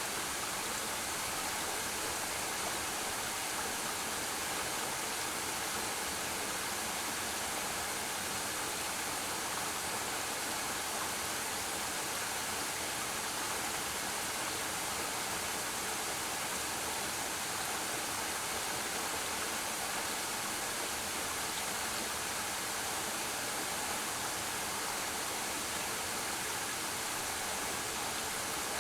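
Waterfall cascading into a pool, a steady, unbroken rush of falling water.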